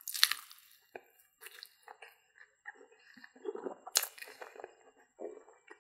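A bite into a battered corndog with a crisp crunch near the start, then wet chewing of the mouthful, with another sharp crisp sound about four seconds in.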